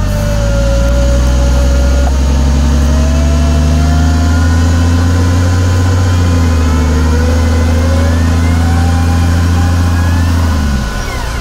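An off-road 4x4's engine held at steady high revs for about ten seconds, then dropping back shortly before the end, with a wavering whine above it, during the recovery of a 4x4 stuck in deep mud.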